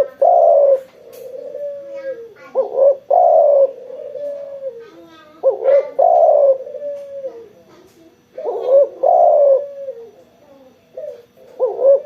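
Spotted dove (tekukur) cooing in full song, a repeated phrase of a few short notes swelling into a loud drawn-out coo that trails off lower, about once every three seconds.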